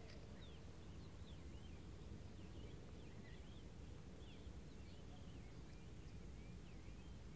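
Faint birds chirping, many short scattered calls one after another, over a low steady rumble.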